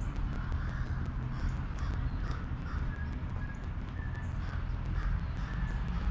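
Birds calling over and over in short calls, about two a second, over a steady low rumble.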